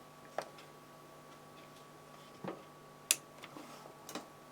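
Four light, sharp clicks at uneven intervals from fly-tying tools and materials being handled at the vise, over a faint steady hum.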